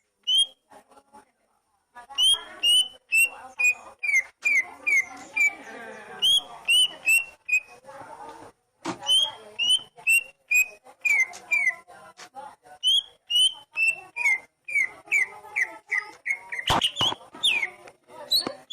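Oriental magpie-robin (kacer) singing: a long run of short, sharp whistled notes, about two a second, over softer warbling, with a short pause near the start and another about halfway through.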